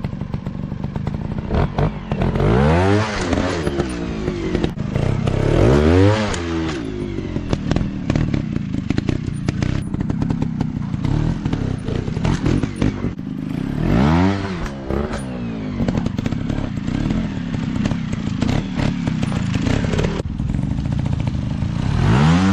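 Dirt bike engines running, revving up and back down four times, with a steady rattling engine note between the revs.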